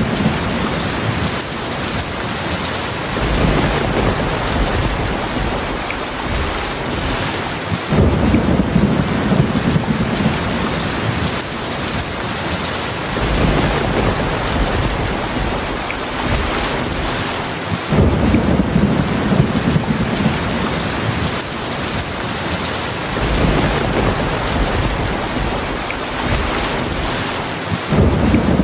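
Heavy rain falling steadily, with low rumbles of thunder rolling in about every five seconds.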